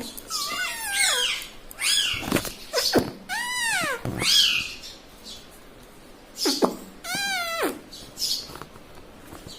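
A rose-ringed parakeet giving a run of short squawking calls that arch up and down in pitch, with a quieter gap midway before one more long call.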